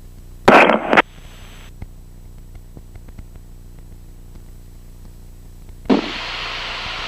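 Aviation radio in the cockpit headset audio: a short, loud burst of transmission noise about half a second in, and near the end a steady hiss of a keyed, open radio channel just before a tower call. Under it runs the faint, steady drone of the Cessna 172SP's engine.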